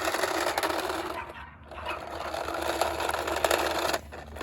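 Toy truck's wheels rolling, a steady gritty grinding and rattling that drops away briefly about a second and a half in.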